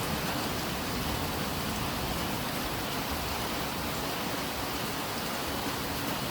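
Steady rain falling at night, an even hiss with no breaks.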